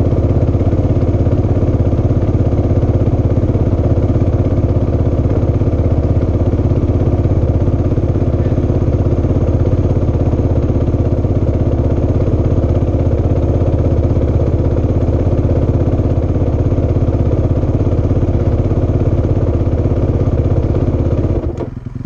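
Motorcycle engine idling steadily, then dropping away sharply near the end.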